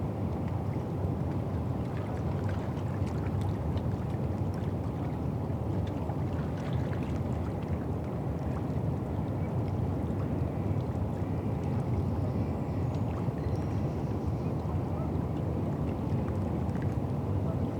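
Steady low rumble of riverside ambience on the Thames foreshore, with faint scattered light ticks over it.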